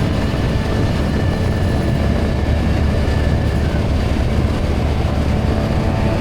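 Motorcycle engine running at a steady speed under rushing wind noise while riding.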